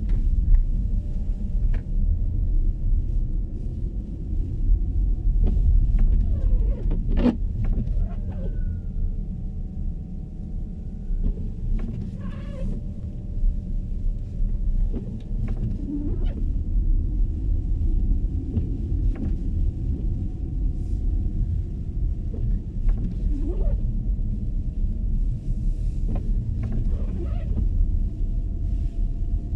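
MG ZS EV electric car driving, a steady low rumble of road and tyre noise with a faint whine that drifts slightly in pitch. A few faint clicks and creaks come through, the clearest about seven seconds in.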